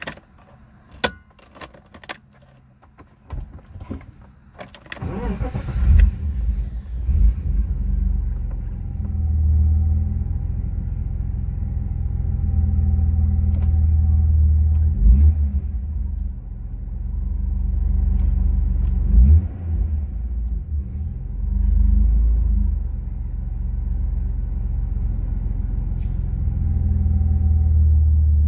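Car engine started: a few clicks and rattles of the key in the ignition, then the engine catches about five seconds in and settles into a low idle that swells and dips in level several times. It is running with a check-engine fault that the owner puts down to the idle control valve, though the valve is new.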